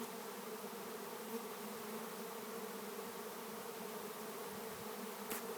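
Steady, dense buzzing of a honey bee swarm, hundreds of bees in the air around the microphone as the swarm moves into a hanging capture box.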